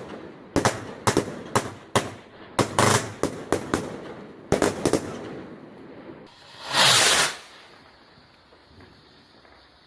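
Fireworks going off: a rapid, irregular string of sharp bangs for about five seconds, then a louder hissing burst lasting about a second, after which the sound dies away.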